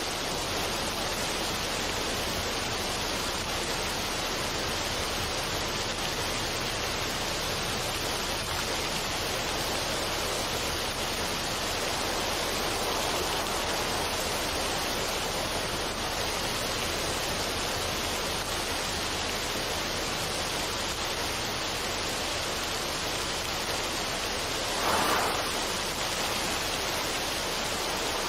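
Steady, even rushing noise with no music or pitched tones, like a relaxation noise or water ambience track. A brief louder swell comes about 25 seconds in.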